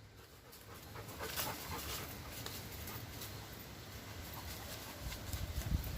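A dog's small sounds amid scattered short clicks and rustles, over a low rumble.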